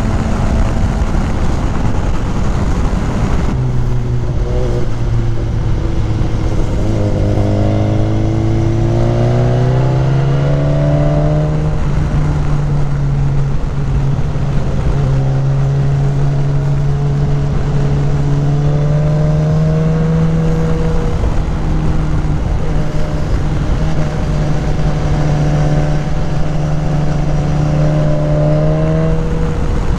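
BMW S1000XR inline-four engine, fitted with a K&N high-flow air filter, running on the road under steady wind rush; a few seconds in the engine note comes through and climbs as the bike accelerates, then holds fairly steady at cruising revs.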